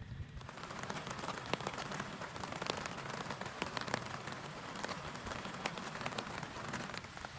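Heavy rain falling on a tent, a dense hiss full of separate drop hits. It comes in suddenly just after the start and eases slightly near the end.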